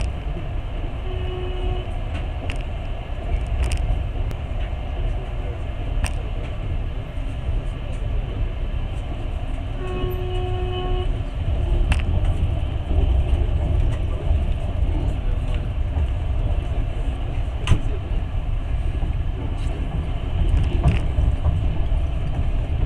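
Passenger train running, with a steady low rumble and occasional sharp clicks. The locomotive horn sounds twice: a short toot about a second in and a longer blast about ten seconds in.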